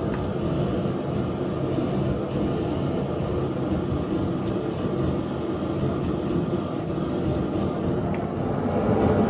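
Power tool motor running steadily on the knife blade during sanding and shaping: a constant low hum with a continuous hiss, unchanging throughout.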